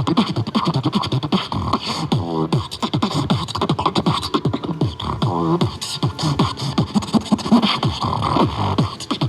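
Vocal beatboxing: a fast, unbroken stream of mouth-made kick and snare sounds, with two short buzzing pitched passages, around two seconds and five and a half seconds in.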